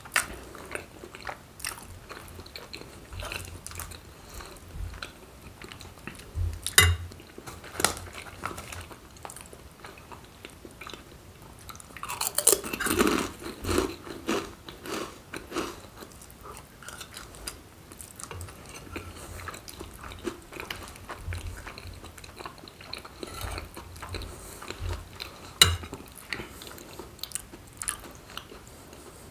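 Close-miked chewing and mouth sounds of a person eating forkfuls of macaroni and cheese, with scattered sharp clicks and a busier, louder stretch about halfway through.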